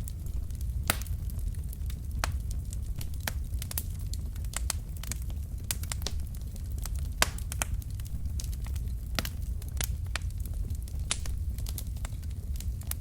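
Wood fire burning in a fireplace: irregular sharp crackles and pops from the burning logs over a steady low rumble of the flames, with one louder pop a little past halfway.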